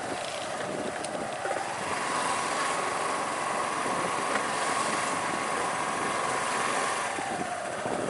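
Sports car engines running steadily, with one engine's pitch dropping near the end as it slows.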